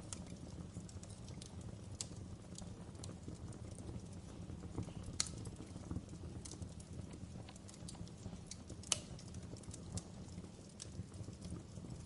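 Wood fire burning in a fireplace: a steady low rumble of flames with irregular sharp crackles and pops, two of them louder, about five and nine seconds in.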